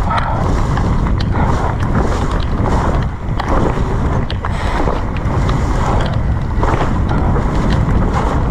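Wind buffeting the microphone over the rush of tyres through a rain-soaked, slippery trail as an electric mountain bike descends, with scattered sharp knocks and rattles from the bike over the bumps.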